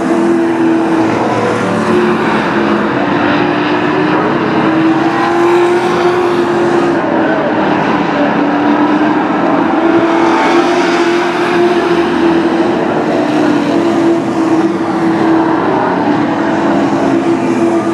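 Sport truck race engines running hard around a short oval track, a steady loud drone whose pitch rises and falls as the trucks lap.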